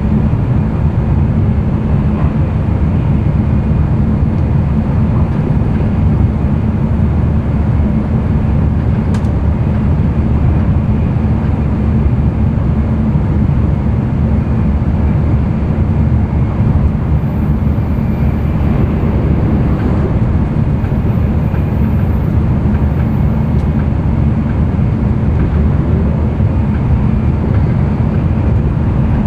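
Running noise of an N700-series Tokaido Shinkansen train heard from inside the passenger cabin: a steady, deep rumble with a rushing noise over it.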